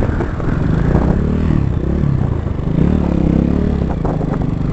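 250cc dirt bike engine running and being revved, the pitch rising and falling twice.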